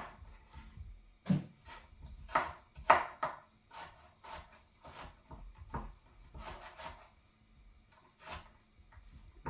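Knife chopping onion on a cutting board: about a dozen uneven knocks of the blade against the board, the loudest about three seconds in.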